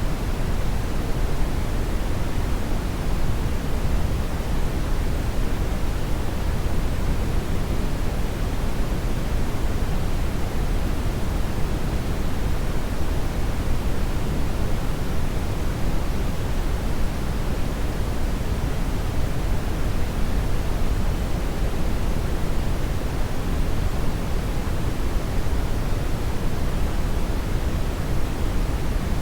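Hair dryer blowing steadily: an even rushing noise, heaviest in the low end, with no change in level.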